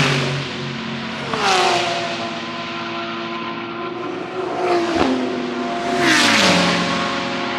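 GT3 race cars passing at speed one after another, each engine note dropping in pitch as the car goes by; four passes, the loudest at the start and about six seconds in, with other cars' engines audible in between.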